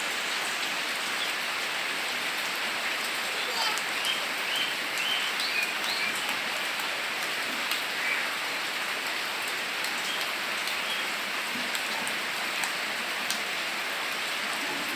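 Steady rain falling, an even hiss of drops. A few brief high-pitched calls sound over it a few seconds in.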